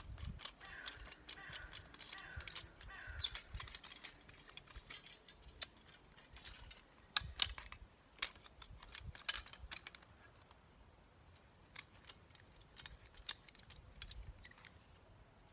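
Woodland work with a hand saw and deadwood: a run of irregular clicks, taps and knocks, the loudest a pair just past the middle.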